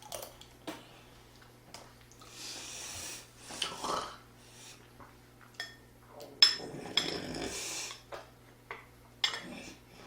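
A person eating at close range: slurping, chewing and heavy breathing, with sharp clinks of utensils against dishes. The loudest burst of noise comes about six and a half seconds in.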